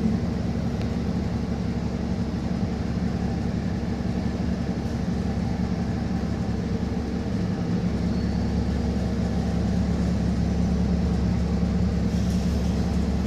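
City bus engine running with a steady low drone and rumble, heard from inside the passenger cabin.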